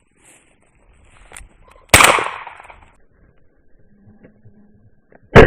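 Shotgun shot: a loud sudden crack about two seconds in, dying away over about a second. Right at the end another loud bang begins.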